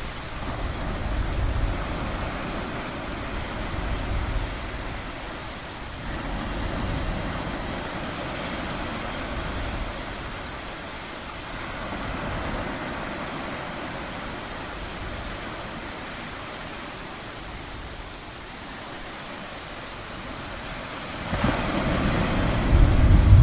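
Ocean surf washing in a steady rush that swells and eases every few seconds, with a low rumble of thunder building near the end.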